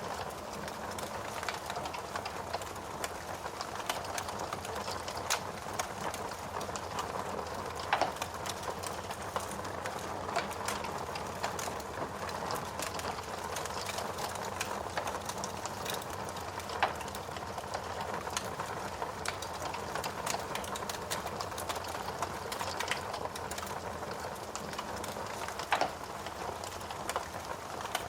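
Logs burning in a fireplace: a steady hiss of the fire with constant fine crackling and irregular louder pops and snaps.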